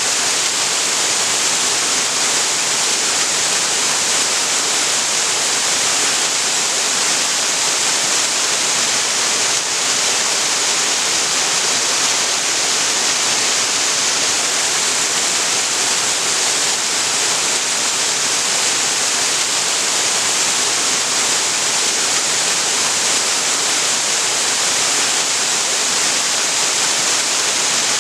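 Waterfall on a creek: water pouring and splashing in a loud, steady, unbroken hiss.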